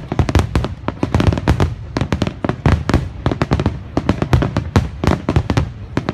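Aerial fireworks shells bursting in a dense, rapid barrage: overlapping sharp booms several times a second, with no letup.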